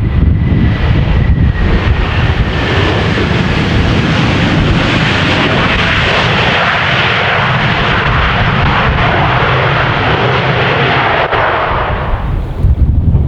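Jet airliner passing: its engine noise swells to a peak in the middle and then fades away, with a faint whine falling in pitch in the first couple of seconds. Strong gusty wind buffets the microphone throughout.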